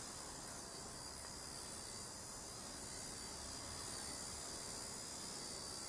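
Blade Nano CP S micro RC helicopter hovering: a steady high-pitched whine from its motor and rotors. It is running smoothly on a test hover after repair, and the pilot judges it to be okay.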